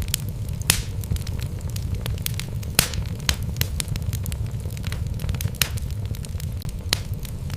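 Wood fire burning in a fireplace: logs crackling with frequent small snaps and a few louder pops, over a steady low rumble.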